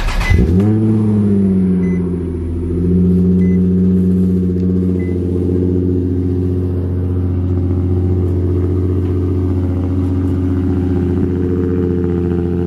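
Nissan 350Z's 3.5-litre V6 catching at the very start, its pitch dipping and recovering within the first second, then settling into a steady idle.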